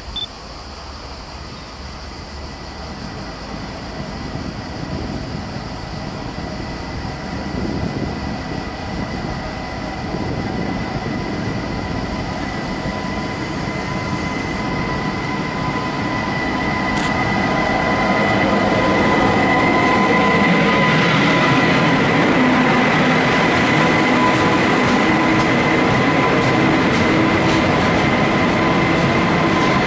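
Freight train hauled by an electric locomotive, carrying semi-trailers on flat wagons, approaching and then rolling past. The rumble of wheels on rail grows louder for about twenty seconds, then stays loud as the wagons go by, with a steady high whine over it.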